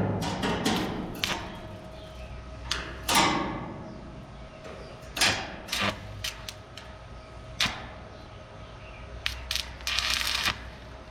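Irregular knocks and clanks at a work site: about five louder strikes, each with a short ring, among many small clicks, then a brief rattling burst near the end.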